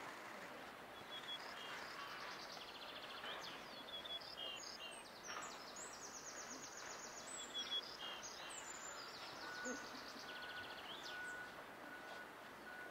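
Faint outdoor ambience with small birds chirping and trilling in quick, high-pitched runs.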